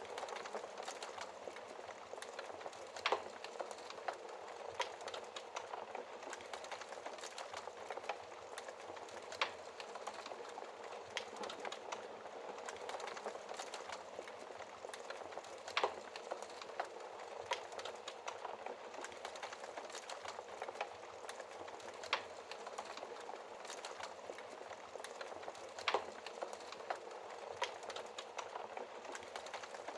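Wood fire burning in a fireplace: a steady crackling hiss with frequent small snaps and an occasional louder pop every several seconds.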